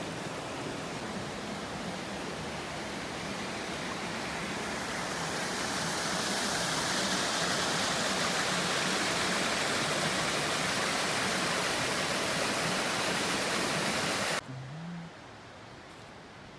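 Rushing water of a river, a steady wash of noise that grows louder about five seconds in and cuts off abruptly near the end.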